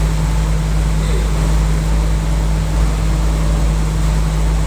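Package air-conditioning unit running, with a steady low hum and fan noise.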